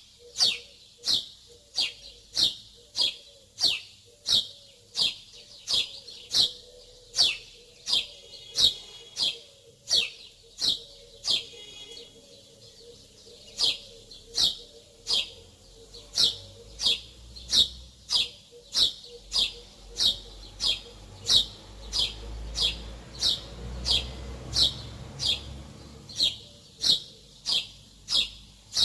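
A small bird chirping over and over: short high chirps that fall in pitch, about two a second, with a brief pause near the middle. A faint low rumble sits underneath in the second half.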